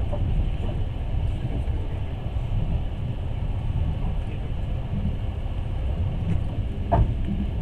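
Passenger train running on the rails, heard from inside the carriage: a steady low rumble of wheels and car body, with a single knock about seven seconds in.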